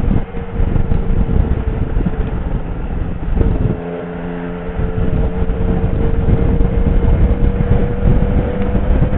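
Motorcycle engine running on the move, heard over heavy wind buffeting on the microphone. About three and a half seconds in the engine note drops and goes quieter for a second, then picks up and climbs slowly.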